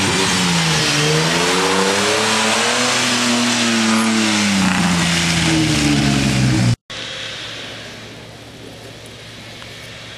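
Four-wheel-drive engine revving hard, its pitch dipping, climbing and falling again as the throttle is worked. About two-thirds of the way in it cuts off abruptly, and a much quieter steady engine noise follows.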